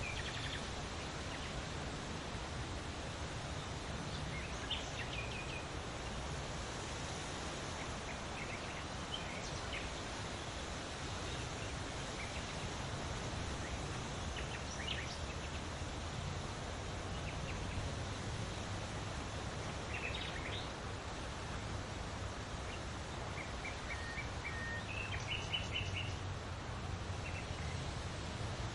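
Songbirds giving scattered short chirps and brief trills, a few seconds apart, with a quick run of notes near the end, over a steady outdoor noise bed.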